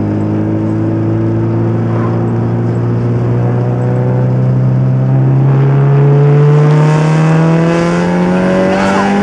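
Turbocharged Honda B18C four-cylinder in a Civic hatchback accelerating hard under boost through a muffler-less straight-through exhaust. The engine note climbs steadily in pitch as it pulls through the revs.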